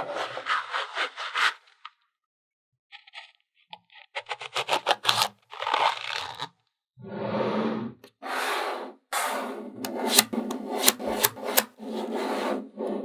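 Small neodymium magnetic balls being handled: bursts of rapid clicks as balls snap together, mixed with a gritty rubbing and scraping as strings and clusters of them roll and slide against each other, with a couple of short pauses.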